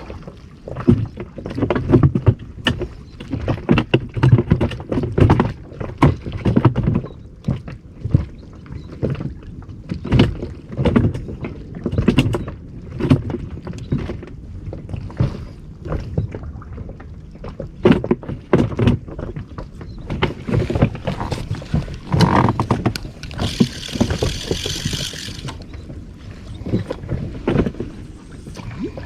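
Water slapping and knocking irregularly against the hull of a small inflatable boat at sea, with a brief hiss of about two seconds near the end.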